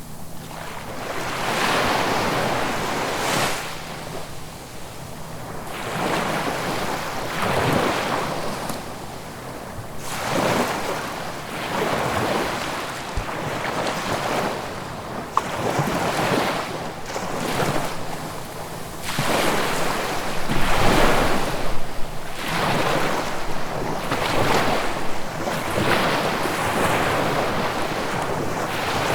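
Sea waves breaking one after another, each surge of wash swelling and fading away within every few seconds.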